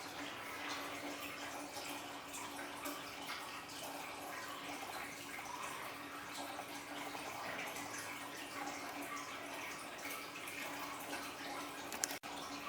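Water from an aquarium waterfall feature trickling and splashing steadily into the tank, over a steady low hum. There is a sharp click and a brief dropout near the end.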